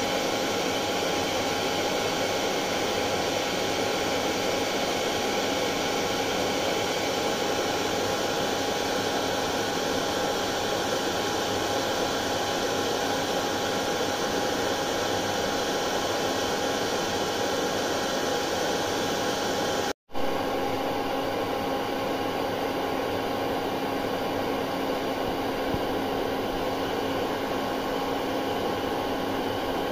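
Hair dryer running continuously: a steady rush of air with a constant motor tone. About twenty seconds in, the sound drops out for a split second, then carries on with a slightly changed tone.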